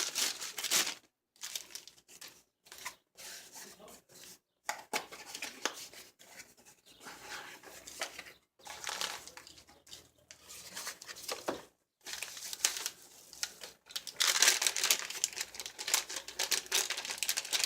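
Packaging of a carburetor rebuild kit crinkling and tearing as it is opened by hand, in irregular crackly bursts with short pauses, busiest and loudest near the end.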